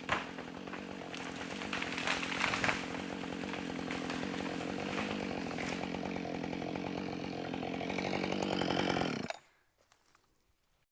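Chainsaw running under load, cutting through a standing hemlock trunk during felling, then cutting off abruptly about nine seconds in.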